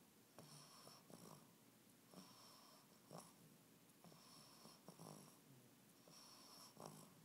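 English bulldog puppy snoring faintly in its sleep, about one rasping, snorting breath every two seconds, four in all.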